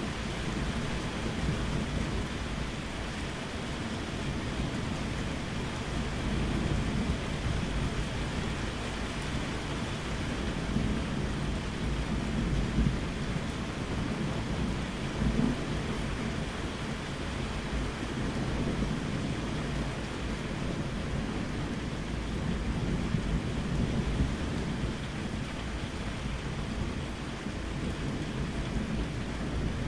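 Steady rain falling, with a low rolling rumble of thunder beneath it that swells a few times.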